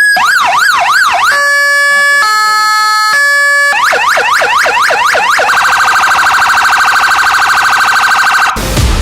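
Fire engine's electronic siren switching through its tones: a few quick yelp sweeps, then a slow two-tone alternation, then faster yelps and a very rapid warble. It cuts off suddenly near the end as loud music comes in.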